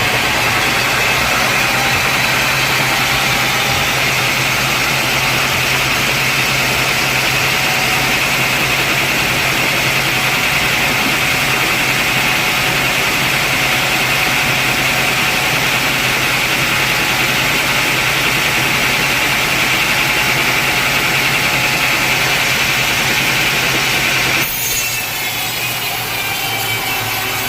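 Sawmill saw cutting through a large teak log, a steady rasping whine over the hum of the machine's motor. The sound changes abruptly near the end, turning a little quieter.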